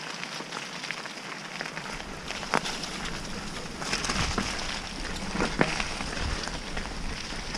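Mountain bike rolling over a wet, muddy trail: a steady crackling hiss of tyres on wet ground, with a couple of sharp knocks from the bike over bumps. A low rumble comes in about two seconds in.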